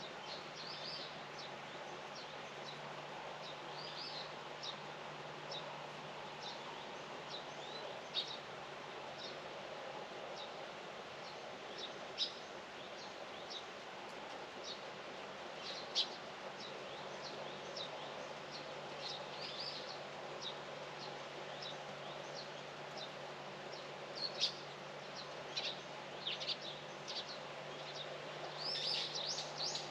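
Small birds chirping in short, high calls scattered throughout, over a steady hiss of outdoor background noise, with a few sharp clicks; the calls grow dense near the end.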